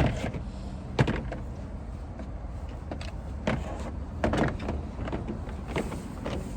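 Scattered sharp clicks and knocks of hand tools and engine parts being handled under the hood, over a steady low background noise.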